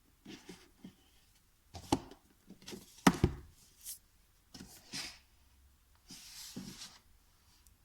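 Things being handled by hand: scattered light knocks and clicks, with a sharper double thump about three seconds in and a brief rustle a little after six seconds.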